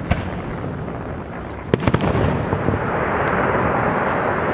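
Fireworks going off: a sharp bang about a second and a half in, amid continuous dense crackling that grows louder in the second half.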